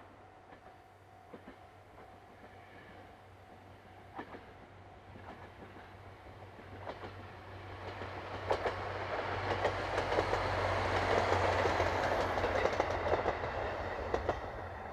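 Diesel railcar approaching and passing close by: the engine's low drone swells to a peak over the second half, with the wheels clicking over rail joints.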